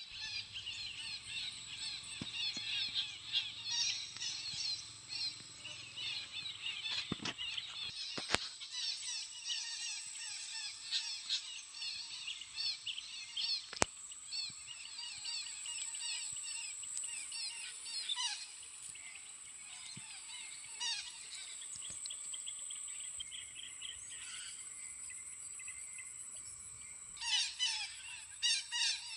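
A large flock of parrots calling, with dense, overlapping short squawks and chirps, plus a few sharp clicks. A steady high-pitched tone strengthens about halfway through.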